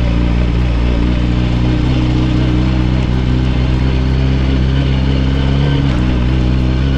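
Yamaha R6 inline-four engine running steadily at low road speed, held in first gear because the clutch cable has snapped. The pitch shifts slightly about six seconds in.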